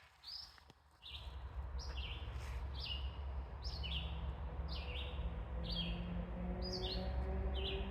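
Small birds chirping: many short chirps, each falling quickly in pitch, about two a second, over a low rumble. A faint steady low hum starts about halfway through.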